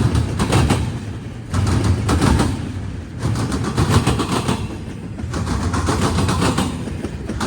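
CSX intermodal freight train's wheels pounding over a railroad diamond crossing, with a low rumble underneath. Each car's wheelsets hit the gaps in the crossing as a quick cluster of loud bangs, and the clusters repeat about every second and a half.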